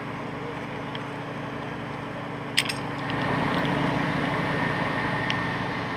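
Crane engine running steadily, getting a little louder about three seconds in, with a faint high whine joining it. A sharp click sounds about two and a half seconds in.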